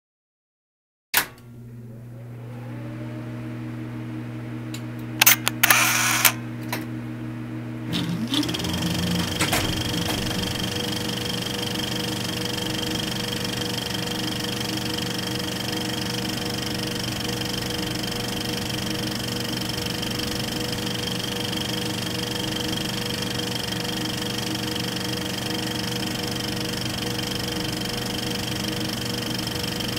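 Film projector starting up and running, with a steady motor hum and mechanical clatter. There are a few sharp clicks about five to six seconds in. Around eight seconds in it comes up to speed and settles into a steady running sound with a high whine.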